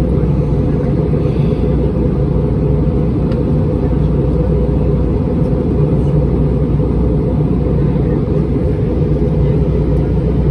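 Steady low rumble of an Airbus A320-231 heard inside the passenger cabin: engine noise and airflow, with no change in pitch or level.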